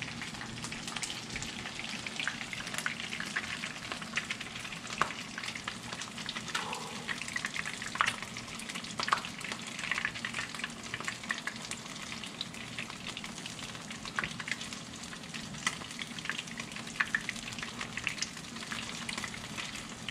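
Beer-battered bluegill fillets frying in hot oil in a skillet: a steady sizzle with frequent crackling pops.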